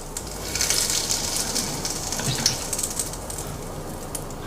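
Hot cooking oil poured over chili powder and dry spices, sizzling and crackling as it hits them; the hiss swells about half a second in and keeps on.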